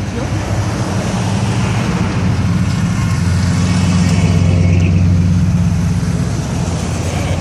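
Classic car engine running with a low, steady rumble as the car cruises slowly past, growing louder to a peak a little past the middle and easing off slightly near the end.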